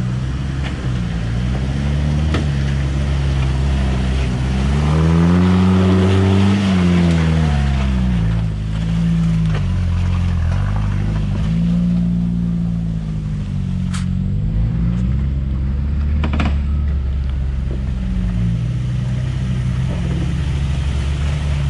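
Jeep Wrangler TJ engine working under load, its revs rising and falling again and again as it climbs through the trail, highest about five to seven seconds in. Two sharp knocks come near the middle.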